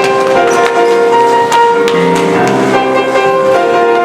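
Instrumental music with piano, playing the introduction to a song in a stage musical.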